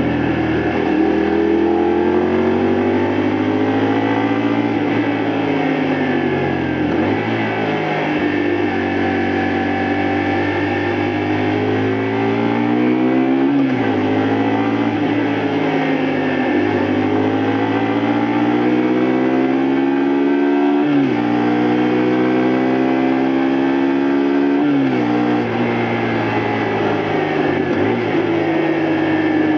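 Honda Varadero 125's V-twin engine under way, its pitch climbing under throttle and easing off, and dropping sharply several times before climbing again as the rider shifts gear.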